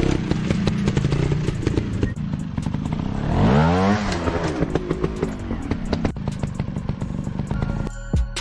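Trail motorcycle engine running over a steady patter of clicks and clatter, with one rev that rises and falls about three and a half seconds in. Music starts near the end.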